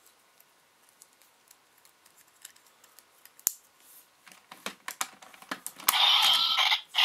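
Small plastic clicks and knocks as a Ranger Key is fitted and turned in a Gokaiger Mobirates toy, then about six seconds in the toy's speaker starts playing its loud electronic transformation sound.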